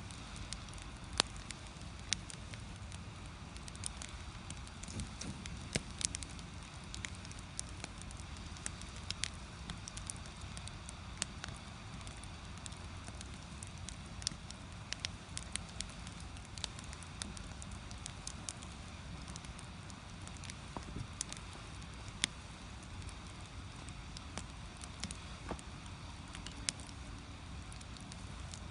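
Firewood burning in an agungi, the firebox of a traditional Korean hearth: irregular sharp crackles and pops over a steady low rumble.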